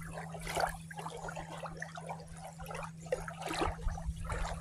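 Small lake waves lapping at the shore, in soft irregular washes.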